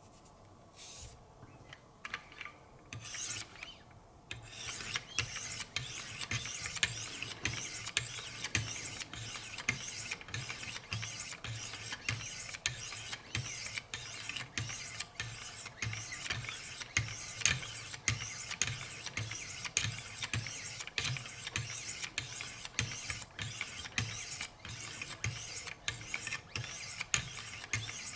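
Wicked Edge guided sharpener's 2,200-grit stones scraping along the edge of an S90V steel knife blade in quick, even, repeated strokes, about two to three a second. A few softer strokes come first, then the steady stroking starts about four seconds in.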